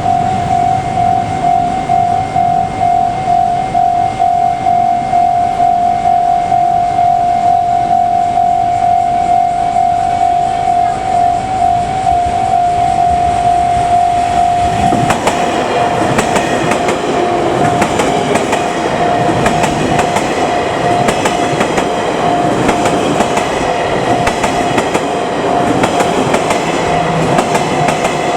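Japanese level-crossing warning bell ringing steadily in a fast pulsing tone. About halfway through, a JR West 283-series 'Ocean Arrow' limited express reaches the crossing and passes, its wheels clattering over the rail joints under the bell.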